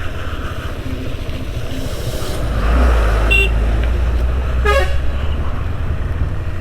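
A truck passing close by, its low engine rumble swelling for a couple of seconds, with two short horn toots about three and five seconds in. A motorcycle engine drones steadily underneath.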